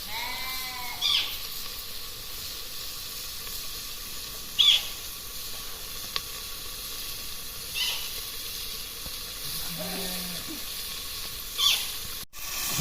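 Food sizzling steadily in hot oil in a pan, with a few short scrapes of a utensil every few seconds. A brief wavering call sounds right at the start.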